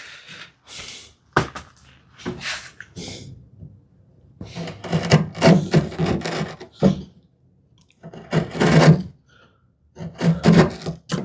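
A chisel chopping and paring a hinge recess in a solid cherry lid: a string of wooden knocks and short scraping cuts, coming in clusters with brief pauses between them.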